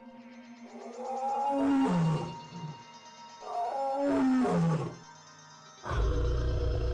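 A large animal calling twice, each call about a second and a half long and falling in pitch, over soft background music; a loud low steady sound starts near the end.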